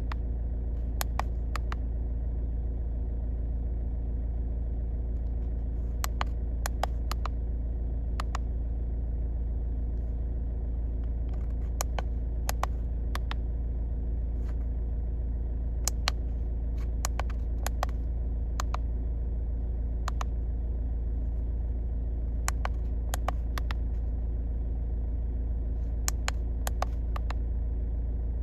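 Car engine idling with a steady low rumble, overlaid by irregular sharp clicks that come singly or in quick clusters of two or three.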